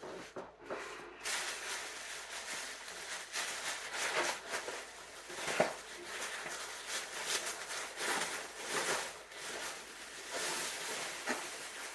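Rustling and crinkling of a takeout bag and food containers being handled and unpacked, in irregular bursts.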